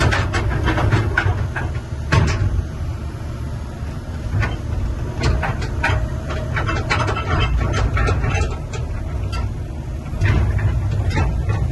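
Kobelco SK210LC-10 hydraulic excavator's diesel engine running steadily, rising in level near the end. Irregular sharp clicks and knocks are scattered over it.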